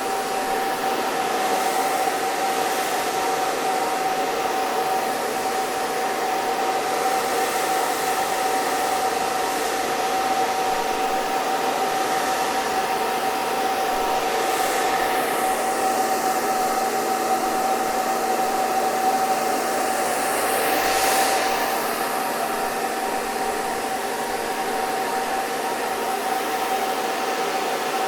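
Electric hair dryer running continuously: a steady rush of air with a constant motor whine. The hiss briefly shifts and sweeps twice, about halfway in and about three quarters in.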